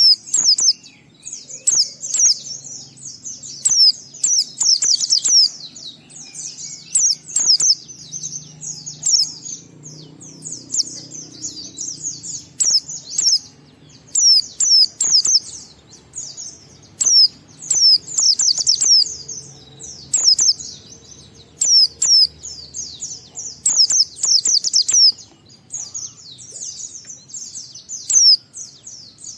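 A white-eye (pleci) singing fast, high-pitched twittering phrases one after another with only short breaks. This is the long, continuous 'ngalas' song that keepers play to get other pleci singing.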